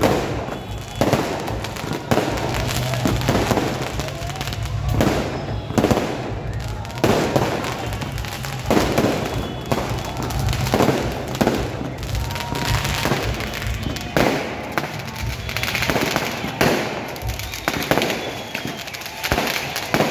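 Aerial firework shells bursting overhead in quick succession, a sharp bang every second or two, with crackling between the bangs.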